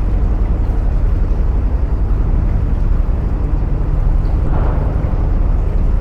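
Narrowboat engine running steadily, a low, even throb inside a canal tunnel. About four and a half seconds in, a brief hiss rises over it.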